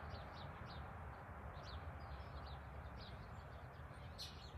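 Birds chirping, a few short high chirps a second, over a steady low outdoor background rush.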